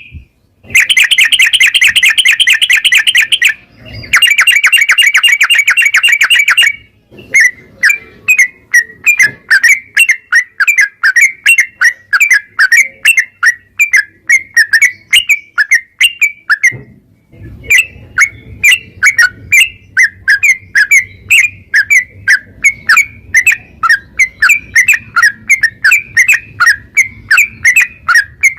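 Sooty-headed bulbul (trucukan) singing: two long, fast trills in the first seven seconds, then a long run of short, quick chirping notes, a few a second, with one brief pause partway through.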